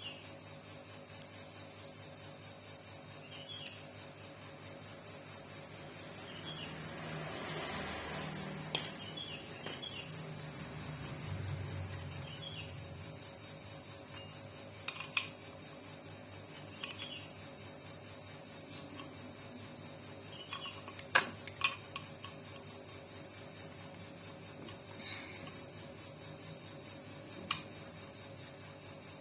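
Hand work on a sewing machine and its parts: rubbing and scraping with scattered metallic clicks and a few sharp knocks, the loudest pair about two-thirds of the way through.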